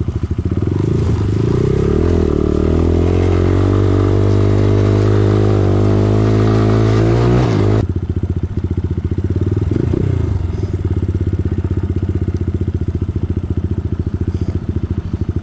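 Single-cylinder dirt bike engine pulling under throttle, its pitch climbing slowly for about seven seconds, then the throttle snaps shut and it drops to a low, pulsing run.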